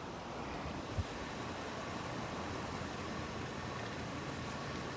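Steady outdoor background noise, with a single low thump about a second in.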